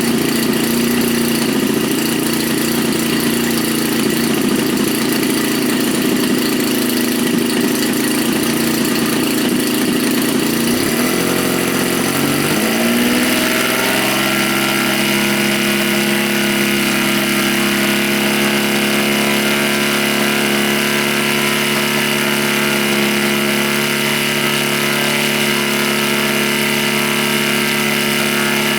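Engine of a radio-control model Stearman biplane running on its first engine run. About twelve seconds in, the engine speeds up with a rising pitch, then holds steady at the higher speed.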